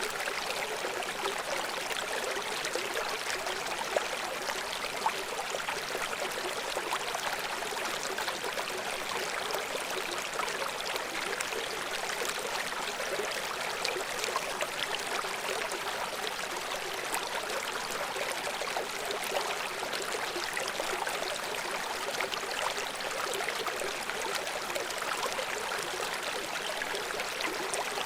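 A shallow stream of water rushing and splashing over rocks, a steady hiss-like flow with small splashes.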